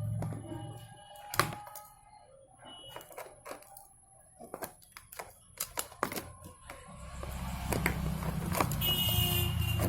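Scattered clicks and taps of small plastic parts and tools being handled during an extension board repair, with one sharper click about a second and a half in. A low rumble of traffic comes up in the last few seconds.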